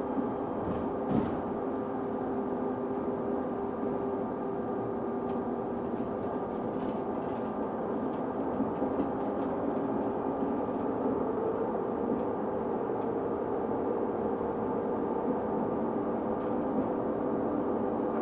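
Inside a London bus under way: a steady running drone with an odd whining tone held at a constant pitch over it.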